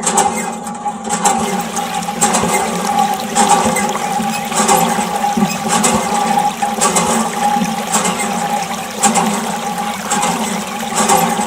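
Water gushing and splashing from a miniature hand pump, surging about once a second, with a steady hum underneath.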